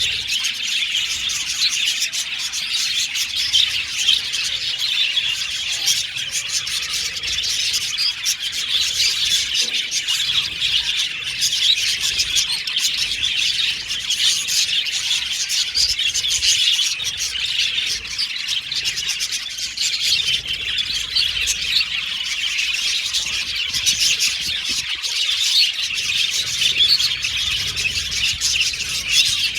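A flock of budgerigars chirping and warbling together, a dense, continuous chatter of many overlapping calls with occasional squawks.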